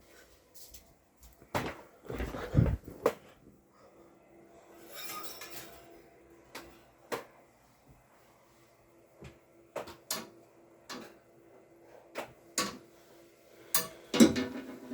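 Sharp clicks and clattering knocks of hard parts of a homemade electric fan being handled, with a louder rattling clatter about two seconds in. A faint steady hum runs under them from about four seconds in.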